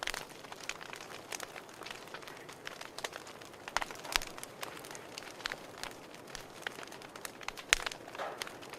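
Campfire crackling: irregular sharp pops and snaps over a steady low hiss of burning wood, with a few louder pops.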